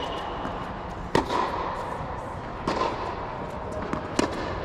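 Tennis balls being struck during a drill: three sharp pops about a second and a half apart, with fainter ball taps between them.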